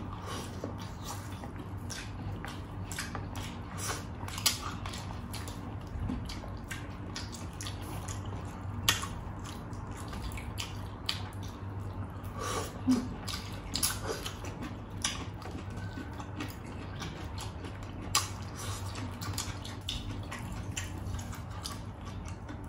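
Two people eating with their hands, chewing rice and biting fried chicken: wet mouth smacks and sharp clicks scattered irregularly, a few louder ones standing out, over a steady low hum.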